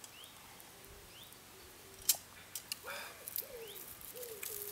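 A pigeon cooing from about three seconds in, with another bird's short rising chirps repeating about once a second. A few sharp clicks, the loudest about two seconds in.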